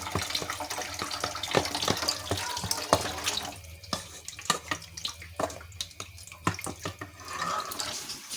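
Chicken broth being poured through a strainer: liquid splashing, with frequent sharp clinks of utensils and pot, and a lull in the pouring in the middle.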